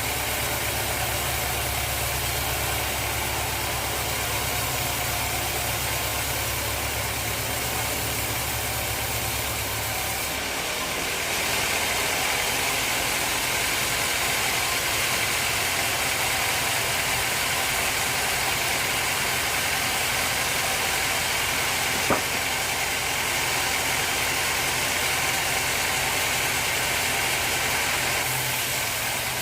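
Sawmill machinery running steadily. About ten seconds in, the low hum drops away and a higher, hissing sound takes over until near the end, with a single sharp click about three-quarters of the way through.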